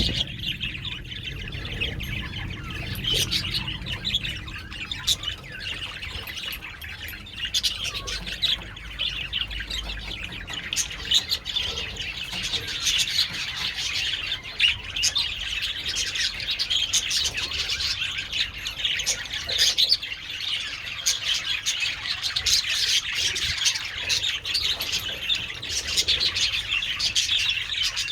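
A colony of budgerigars chattering: many birds chirping and warbling at once in a dense, continuous chorus, with the odd squawk.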